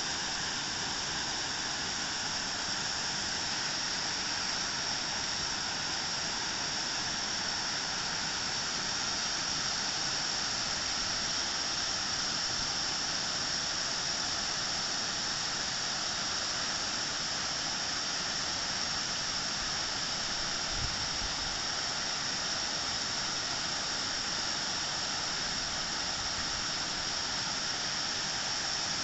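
Waterfall: a steady rush of falling water, an even hiss with no breaks.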